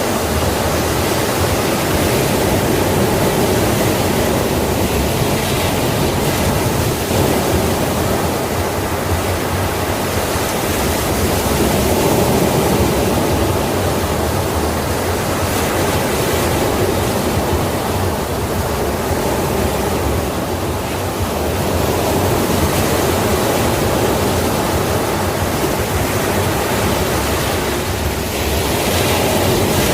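Ocean waves breaking and washing on a shore in a continuous, steady surf noise, with only slight swells in loudness.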